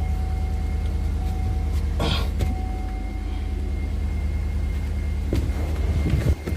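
Car engine idling steadily, with a few brief knocks or clicks inside the car.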